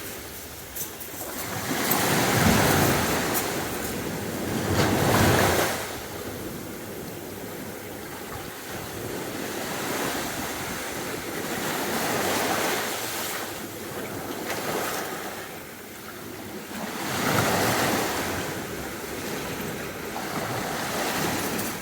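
Sea waves breaking and washing on the beach, in slow swells of noise a few seconds apart, with two loud surges early on the way in and another about two thirds through.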